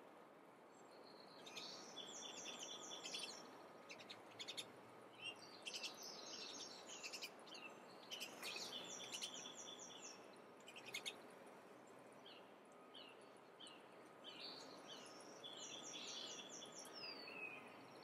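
Faint songbirds singing over a steady background hiss. A short phrase of quickly repeated high notes comes back several times, at about 2, 6, 9 and 15 seconds in.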